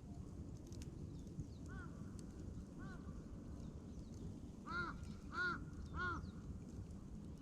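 A crow cawing: two faint calls, then three louder caws in quick succession about two-thirds of the way in. Underneath, a campfire burns with a low steady rush and faint crackles.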